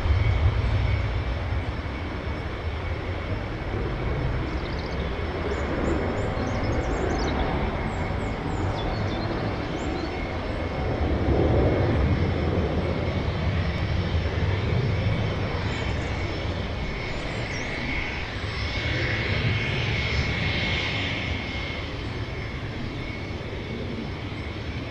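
Gulfstream G450 business jet's twin Rolls-Royce Tay turbofans at takeoff power, a steady deep rumble that swells twice, with a high whine strongest toward the end.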